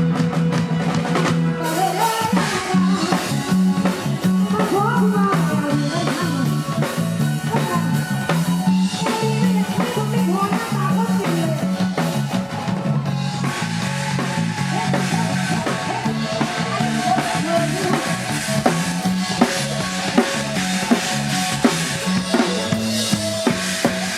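Live band music in a Thai Isan style: a drum kit with bass drum and snare keeping a steady beat over a strong bass line and a wavering melody line.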